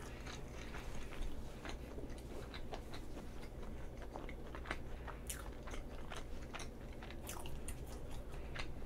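Faint close-up chewing of food, with scattered small clicks from the mouth.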